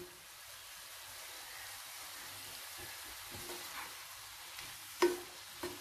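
Vegetables and boiled noodles sizzling faintly in oil in a hot kadhai as the noodles go in and are turned with a wooden spatula, with a couple of short knocks near the end.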